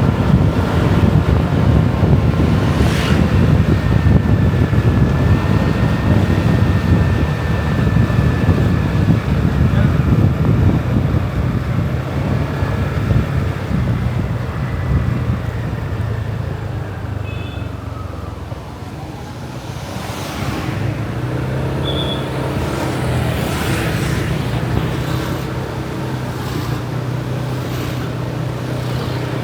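Motorbike engine running along a road, with wind on the microphone and other traffic passing. The engine note settles into a steady hum after a brief lull about two-thirds of the way in.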